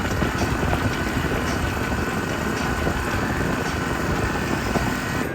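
Sailboat motoring under its engine: a steady engine drone mixed with water and wind noise.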